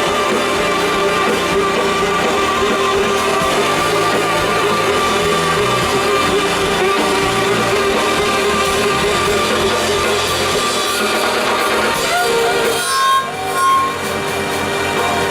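A live band playing continuously, dense and loud with held tones, thinning out briefly about thirteen seconds in before the full sound returns.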